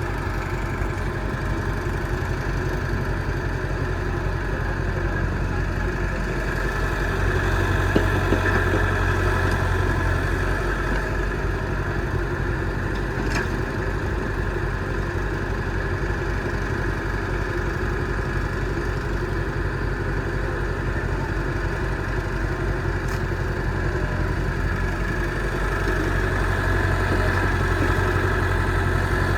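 Diesel engine of heavy earthmoving or farm machinery running steadily, working harder and louder about seven seconds in and again near the end.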